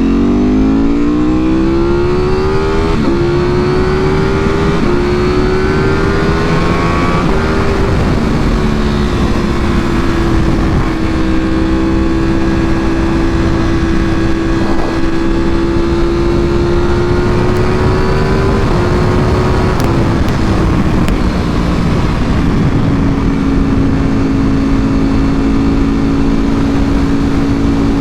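Ducati Panigale V4R's V4 engine through an Akrapovic full exhaust, pulling hard with the pitch climbing over the first several seconds and short breaks at the upshifts. It then holds a steady cruising note and settles to a lower steady note about two-thirds of the way through, with wind rushing over the microphone.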